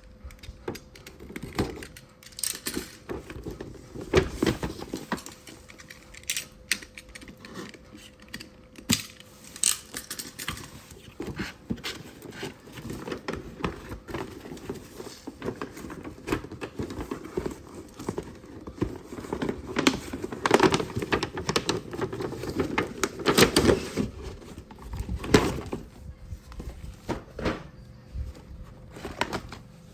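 Irregular clicks, knocks and rustling of plastic toy parts and packaging being handled, busiest in the second half.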